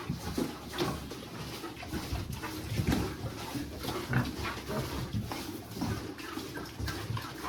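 Farm animals making a rapid, irregular run of short low sounds mixed with small clicks.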